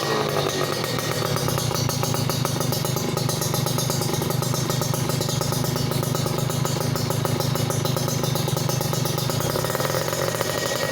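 Kawasaki Ninja two-stroke single-cylinder engine idling steadily through a newly fitted stainless RS1 expansion-chamber exhaust, with a fast even crackle of firing pulses, while the front joint of the chamber is being checked for leaks.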